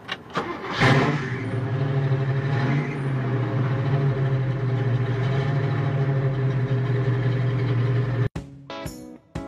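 1964 Chevrolet Impala's engine starting up about a second in, after a couple of clicks, then running at a steady pitch, heard from inside the cabin. It cuts off abruptly near the end, and plucked guitar music begins.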